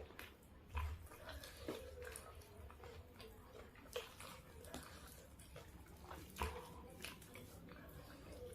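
Close-up eating sounds of someone chewing a mouthful of fried chicken: wet chewing with irregular lip smacks and small clicks.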